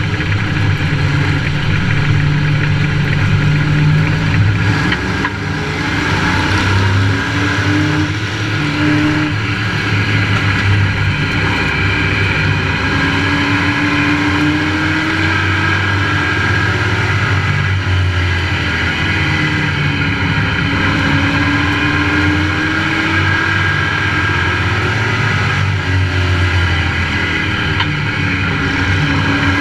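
Onboard sound of a Pro Truck race truck's engine running hard around an oval. The engine note climbs and drops again every several seconds as the truck accelerates down the straights and lifts for the turns, over a steady drone of wind and road noise.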